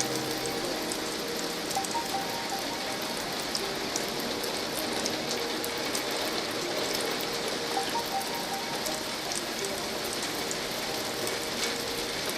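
Steady rain pattering, with small sharp crackles of burning logs in a fireplace scattered through it.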